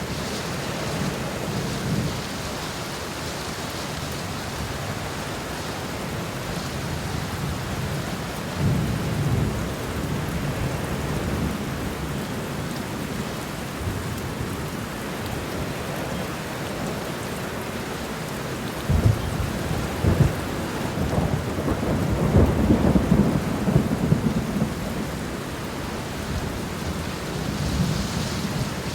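Steady rain falling during a thunderstorm, with thunder rumbling now and then. A sudden clap about two-thirds of the way in rolls on in crackling surges for several seconds.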